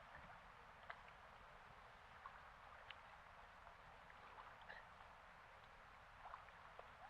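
Faint water lapping, with scattered small splashes and clicks over a steady low wind rumble.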